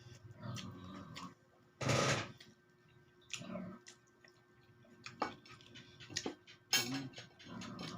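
Eating sounds close to the microphone: irregular chewing and mouth noises with sharp clicks, loudest about two seconds in and again near the end.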